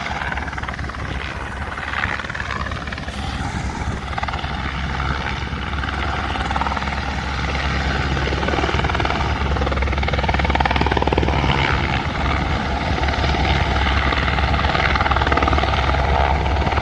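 Helicopter hovering, its rotor beating steadily. It grows louder over the first half and then holds.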